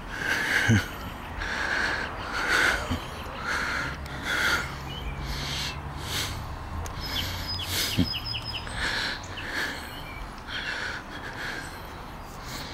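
Birds calling: a series of short, harsh, repeated calls, with a few small high chirps about halfway through.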